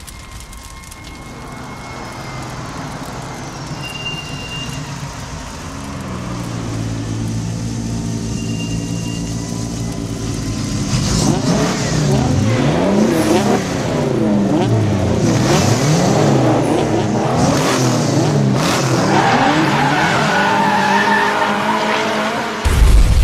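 Several car engines revving and passing, their pitch sweeping up and down in overlapping waves, with tyres squealing; the sound builds from faint to loud over the first half. A heavy low boom hits near the end.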